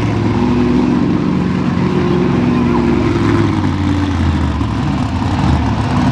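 Monster truck engines running hard in a side-by-side race, loud and continuous, the pitch climbing a little in the middle and easing off after about three and a half seconds.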